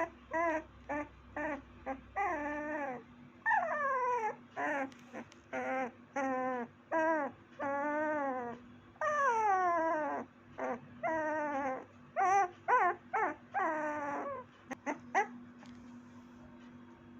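Puppy whimpering and whining over and over: quick short yips mixed with longer whines that fall in pitch, stopping about fifteen seconds in.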